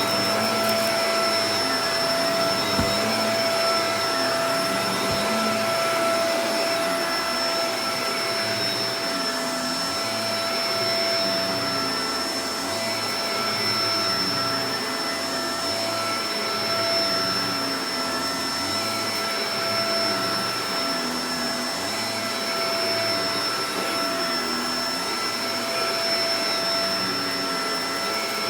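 Shark Professional Powered Lift-Away DLX (NV586) upright vacuum cleaner running steadily, a constant motor whine over airflow noise, with the lower sound swelling and easing about every two seconds.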